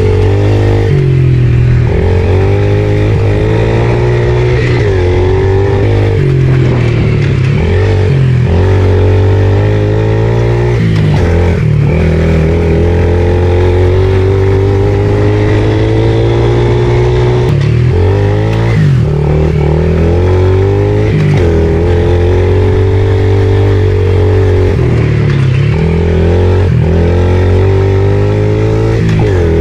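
Pit bike engine being ridden hard, revving up and dropping back over and over as the throttle is opened and shut, with a short break in the engine note every few seconds.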